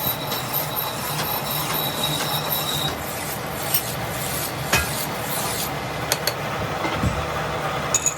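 Metalworking machinery running steadily with a scraping, rasping noise, with a thin high tone in the first few seconds and a few sharp metallic clicks later.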